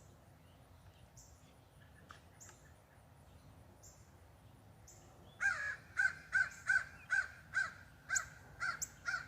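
Crows cawing in a fast, agitated run of calls that starts a little over halfway through, about two to three caws a second. Before that there is only quiet outdoor background.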